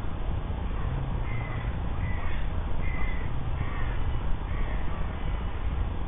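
A bird calling five times in a row, short calls just under a second apart, over a steady low rumble of wind on the microphone.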